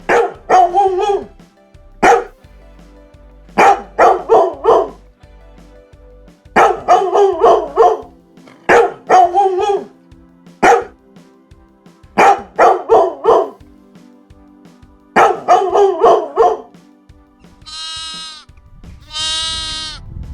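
A dog barking in short groups of one to four barks, over a faint steady music bed. Near the end come two longer bleats.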